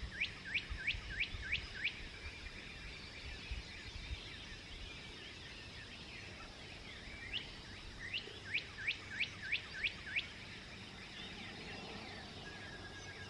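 Songbird singing at dawn: two phrases, near the start and about eight seconds in, each a quick series of about seven descending whistled notes, with fainter bird calls between, over a steady low background rumble.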